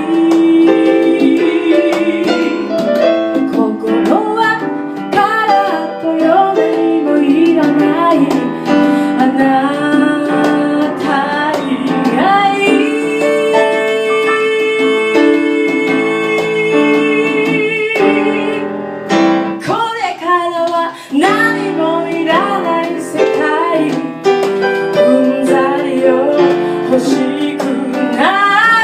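A woman singing live, accompanied by piano and guitar.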